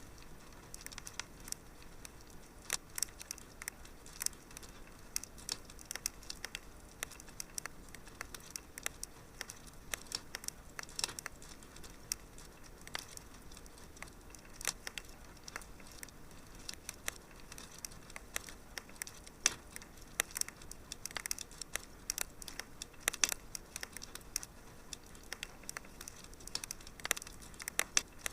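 Wood fire crackling in a fireplace: irregular sharp pops and snaps, several a second and a few louder ones, over a faint steady hiss.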